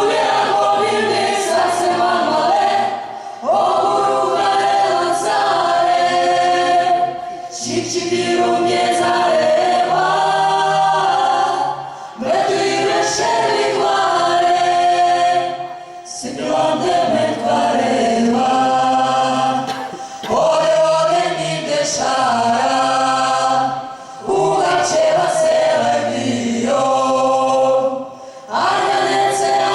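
Vocal ensemble singing a Georgian song in several-part harmony. The singing comes in phrases of about four seconds, with brief breaks between them.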